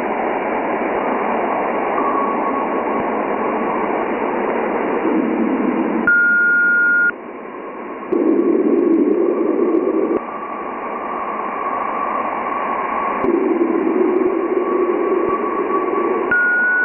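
Space hiss: electromagnetic plasma-wave emissions recorded near a planet and turned into sound, heard as steady radio-like static. A faint steady tone runs under it, a short higher pure tone sounds about six seconds in and again near the end, and lower-pitched swells of noise come and go.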